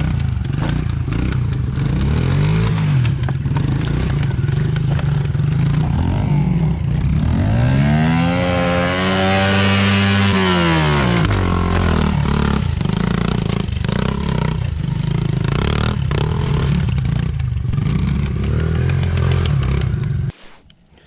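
Pit bike engines running loud and steady. Between about 8 and 11 seconds in, one bike's engine climbs sharply in pitch and falls back, with a shorter rise and fall a few seconds earlier. The sound cuts off abruptly shortly before the end.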